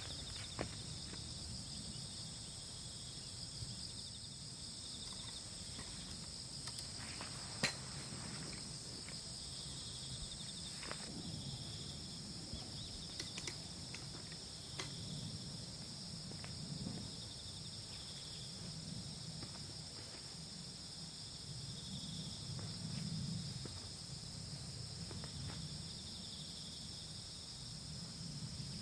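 Insects chirring steadily in chorus at more than one pitch, one of them in short repeated pulses, over a low outdoor rumble. A few faint clicks and knocks come through, with one sharp click about a third of the way in.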